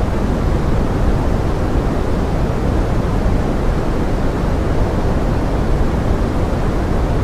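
Steady pink noise mixed with forest rain: an even, unbroken hiss, heaviest in the low end, with no separate drops or events standing out.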